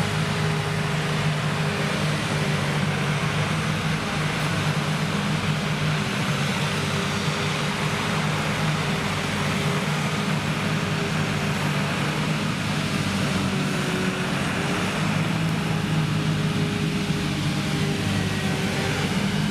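Krone Big X 1100 self-propelled forage harvester, its V12 engine running steadily under load as it harvests triticale, with an even rushing noise from the crop flow over a constant low engine drone.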